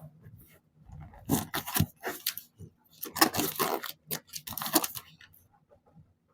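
Paper being torn by hand in several quick rips, in two bursts of tearing about a second and three seconds in.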